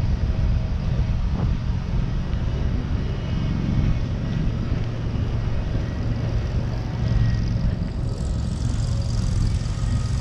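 Street ambience: a steady low rumble of passing road traffic, with a higher hiss joining about eight seconds in.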